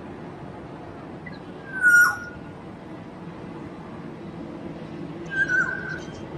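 Black-naped oriole (kepodang) giving two short calls about three and a half seconds apart, each a brief whistle near one pitch with a quick dip at its end. Both sit over a steady low background hum.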